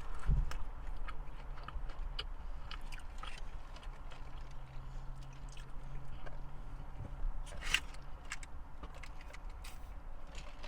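Someone chewing fast food close to the microphone, with many short sharp clicks and crunches scattered throughout, over a faint low steady hum.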